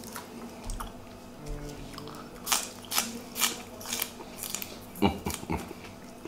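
A person biting and chewing fresh raw greens (herbs and green onion), with about five crisp crunches roughly half a second apart in the middle.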